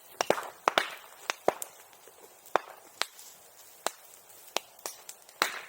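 Bonfire crackling, with a dozen or so sharp, irregular pops, roughly two a second, as the wood and brush catch.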